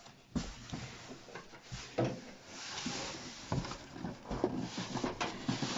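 Scattered light knocks and clicks with rustling, a stretch of rustling around the middle: electric fireplace parts and packaging being handled during unpacking and assembly.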